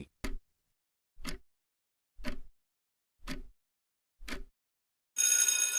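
Quiz countdown timer sound effect: five short clock-like ticks about a second apart, then a bright bell chime about five seconds in that signals time is up.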